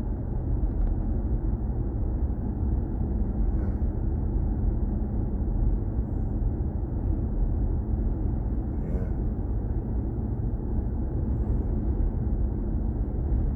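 Steady road and tyre noise from a BMW i4 M50 electric car driving along, a low, even rumble with no engine note.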